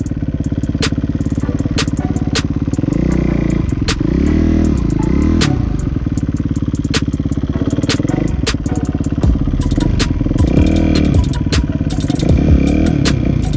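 Kawasaki KX250 dirt bike engine running under riding load, its revs swinging up and down as the throttle is worked, with sharp clacks now and then.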